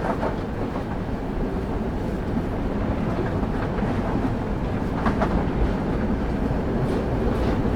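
Passenger train running on rails, heard from on board: a steady low rumble of the wheels, with a few sharp clacks of wheels over rail joints, one about five seconds in and two near the end.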